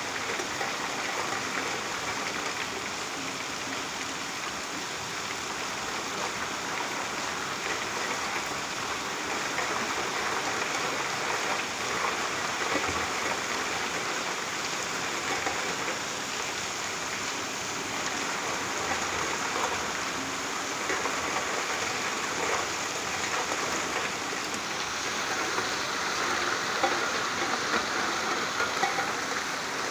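Steady rain falling, a continuous even hiss with faint scattered drop ticks, a little stronger near the end.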